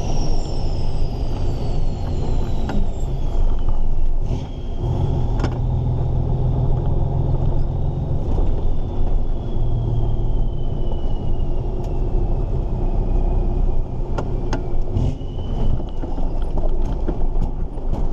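Volvo F16 truck's diesel engine running under way with road rumble, heard from inside the cab. A faint high whistle glides slowly down in pitch over the first few seconds, then rises and falls again.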